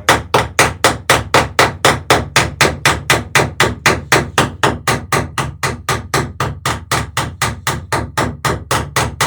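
Hammer riveting the sheer strake of a wooden dory: a steady run of rapid blows, about four a second, that stops near the end, as a rivet is peened over.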